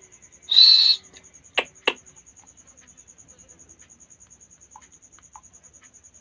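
A parrot gives one harsh squawk of about half a second, followed by two sharp clicks a third of a second apart. A faint, steady, rapid high ticking runs underneath.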